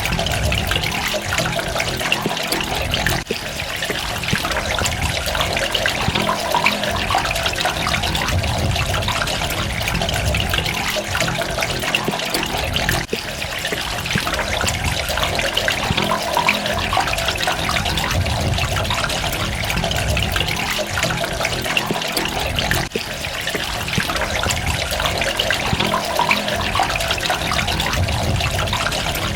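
Running water splashing and trickling steadily, an even continuous rush with no pauses.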